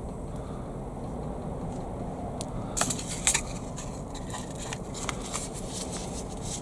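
Handling sounds of seed sowing: a run of small sharp clicks and crackles from a seed packet and seed tray, starting about three seconds in, over a steady low rumble.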